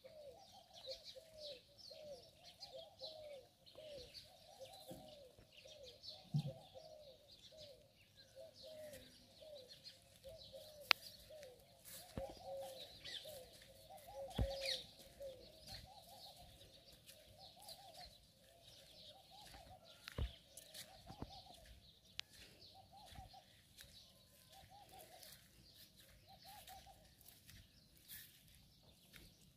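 Birds calling: a long series of low, repeated hooting notes about twice a second that thins out near the end, with higher chirping above. A few sharp taps, one louder about eleven seconds in.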